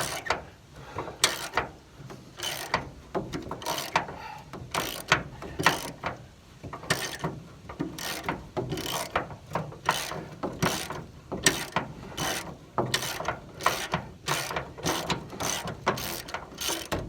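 Hand ratchet wrench clicking over and over on its back-swings while turning out a truck-bed bolt with a T55 Torx bit.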